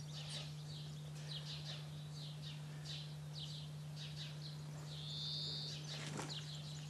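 Birds chirping in short, repeated chirps, with one longer held whistled note about five seconds in, over a steady low hum.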